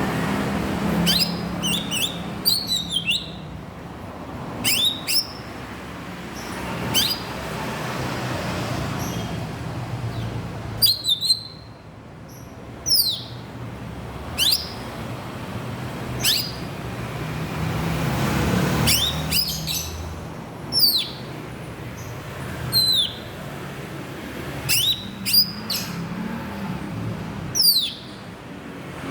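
Greater green leafbird (cucak ijo) giving short, sharp downward-slurred calls, one every second or two, sometimes several in quick succession, over a steady low rumble.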